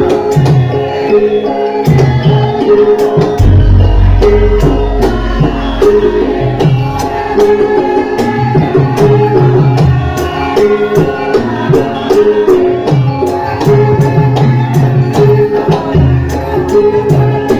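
Live Javanese gamelan music: sustained ringing metal-keyed tones over repeated low drum strokes and frequent sharp percussive clicks.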